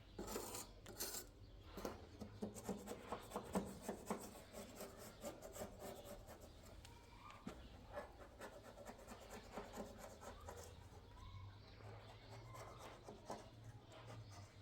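Faint rubbing and scraping on wood, with many small scattered clicks and taps: hand work on a wooden door during a lock repair.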